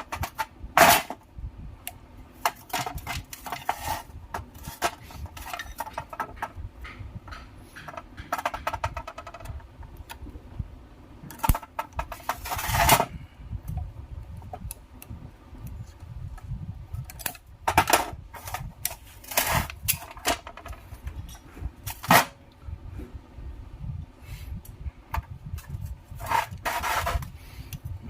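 Irregular metallic clicks, clinks, knocks and short scrapes of tools and small metal parts being handled, with a few longer rasping scrapes.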